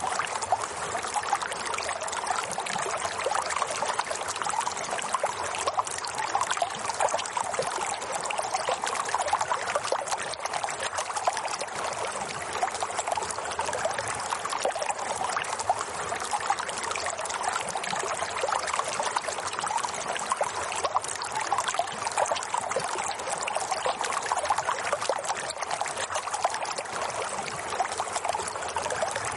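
Running water trickling and splashing steadily, as in a stream.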